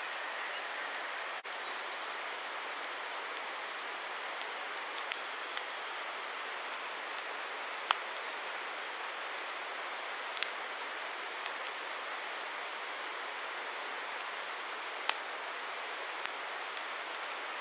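Wood campfire burning: a steady hiss with scattered sharp pops and crackles every second or two.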